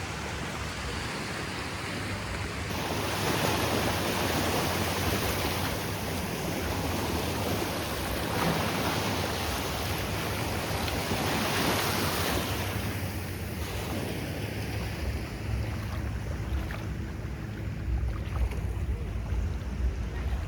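Sea waves breaking and washing up the beach, swelling twice, with a low rumble building toward the end.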